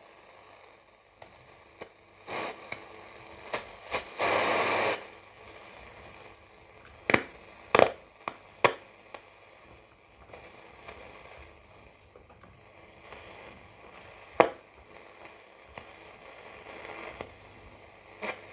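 Roberts R500 radio tuned between stations: faint hiss of static broken by sharp crackles and clicks, with a brief louder rush of noise about four seconds in.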